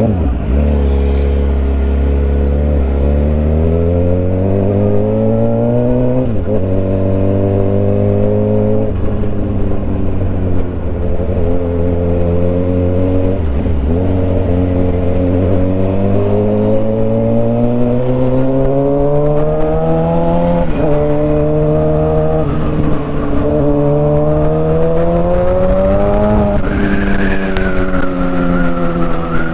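Suzuki GSX-R 750 inline-four with an aftermarket Orion exhaust, ridden and pulling through the gears. The engine note rises steadily, drops sharply at each gear change, and rises again, about six times.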